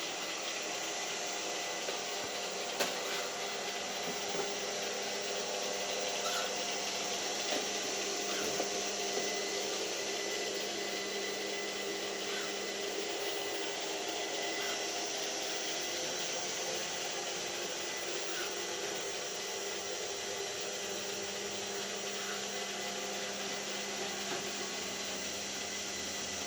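Steady machine hum with a few faint clicks and taps.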